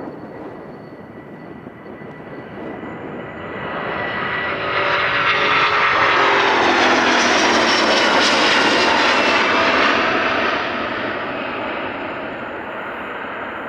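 A large jet airliner's engines at take-off power as it climbs past: a loud jet rush that swells over a few seconds, holds at its loudest for about five seconds with a sweeping, phasing tone, then fades away.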